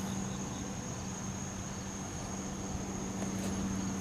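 Steady outdoor background drone: a constant high-pitched tone over a low, even hum, with no distinct events.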